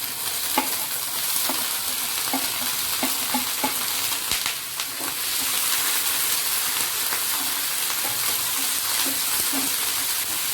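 Chopped onion, capsicum and green chillies sizzling in hot oil in a pan while being stirred, with scattered light clicks and scrapes of the spoon against the pan.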